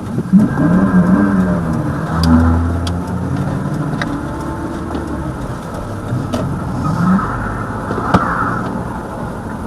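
Car engine running and revving as the car drives off, its pitch rising and falling in the first couple of seconds and again about seven seconds in, with a few sharp clicks.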